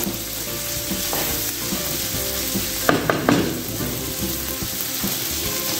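Diced vegetables, corn, ham and raisins frying in butter in a pan over high heat, sizzling steadily while being stirred, with a few short knocks of the utensil against the pan.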